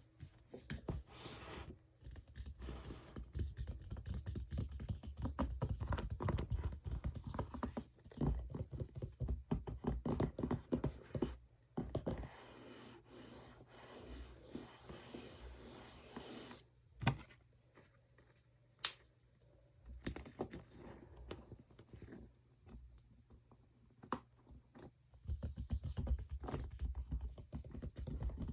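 ASMR tapping and scratching on makeup packaging and products: dense runs of quick small taps and scratches for the first dozen seconds, then a softer steady scratching for a few seconds, sparser single clicks with one sharp click about 19 seconds in, and a dense burst of tapping again near the end.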